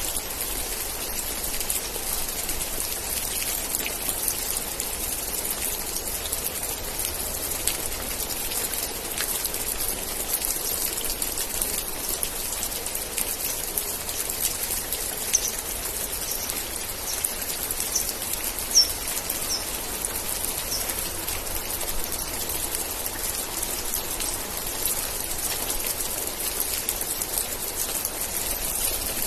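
Steady rain falling, a dense patter of drops with a few louder single drop hits. About halfway through, a short run of about seven high chirps sounds over the rain.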